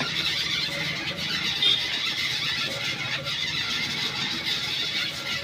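Grinding wheel running against the steel rod of a motorcycle rear shock absorber, a steady high grinding hiss as the rod end is ground off so the rod can be removed.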